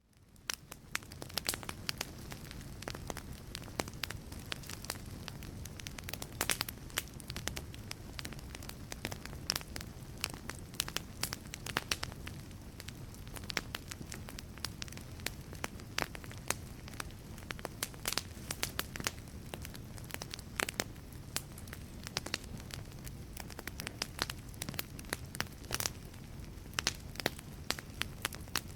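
Wood burning in a fireplace: dense, irregular crackles and sharp pops over a steady low rumble of the flames. The sound drops out at the very start and fades back in within about a second.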